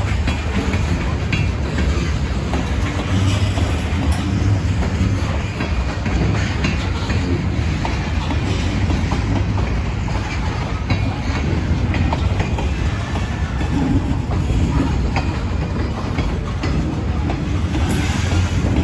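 Freight cars rolling past on the rails, with a steady rumble and wheels clicking over the rail joints.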